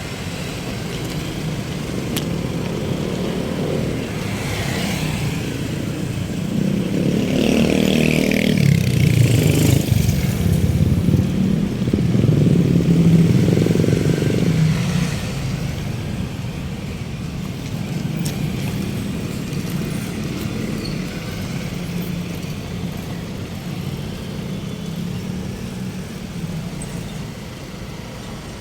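Road traffic: a motor vehicle's engine grows louder, is loudest about halfway through, then fades, over steady traffic noise.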